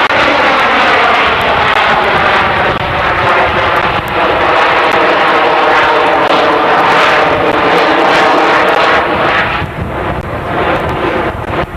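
A low-flying aircraft passing close overhead. Its loud engine noise has a sweeping, phasing tone as it goes by, and it drops off about ten seconds in.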